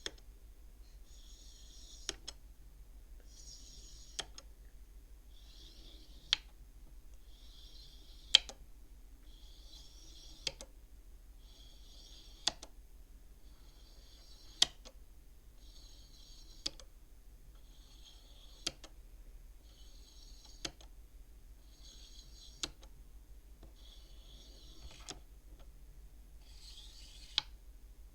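Beads of a toy bead abacus slid one at a time along a rod. Each makes a short sliding rasp that ends in a sharp click as it knocks into the others, about every two seconds.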